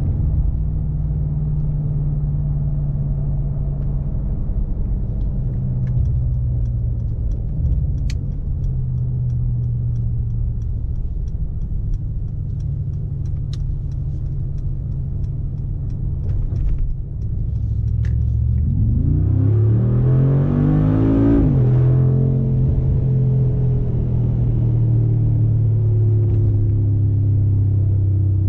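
Mercedes-AMG G63's 4.0-litre twin-turbo V8 running steadily at a low drone, with a faint regular ticking for a stretch. About 18 seconds in it accelerates, the engine note rising for a few seconds until a gear change. It then settles to a steady, slightly louder drone.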